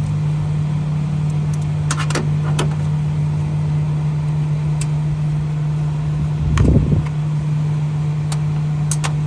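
Steady low machine hum, with a few small metallic clicks and a brief low rattle as a test-port screw is backed out of a gas valve with a service wrench.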